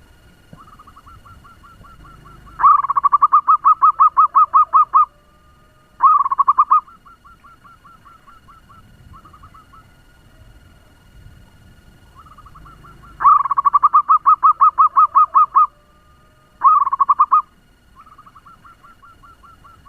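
Zebra dove (perkutut) song, a fast staccato cooing trill. It comes in two bouts, each a long run of quick notes at about six a second followed by a short burst, with fainter trills before and between the bouts.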